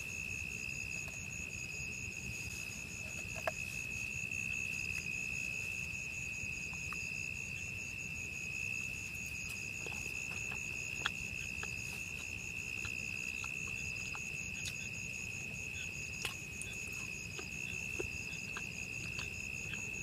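Forest insects calling: one holds a steady, high, shrill drone, while another pulses rapidly and evenly at a higher pitch. A few faint ticks and a low, even background noise lie beneath.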